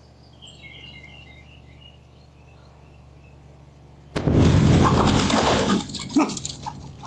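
Birds chirping faintly over a low background, then about four seconds in a sudden, very loud boom that holds for about a second and a half and breaks up into scattered cracks and rattles. This is the unexplained South Carolina boom that some say might have been a meteorite.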